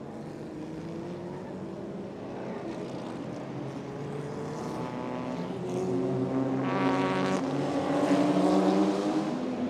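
GT race car engines running at steady, moderate revs while lapping behind the safety car, growing louder as cars approach and pass, loudest near the end.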